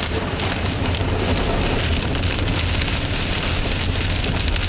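Heavy rain pelting the car's roof and windshield in a steady, dense patter of small hits, over the low rumble of the car driving.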